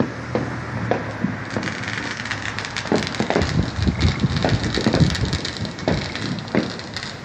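Fireworks going off in quick succession: a run of sharp bangs with ringing tails over a dense crackle, thickest from about a second and a half to six seconds in.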